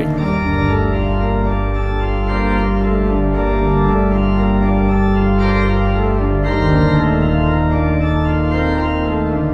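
Organ music: sustained organ chords over a deep bass line, the harmony changing every second or two.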